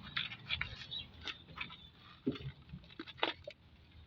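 Scattered light clicks and taps, about a dozen at uneven spacing, with a couple of duller knocks near the middle.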